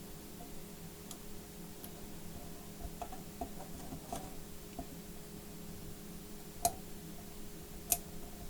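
Faint scattered clicks and light taps from handling laptop display parts during panel fitting, with two sharper clicks near the end, over a steady low hum.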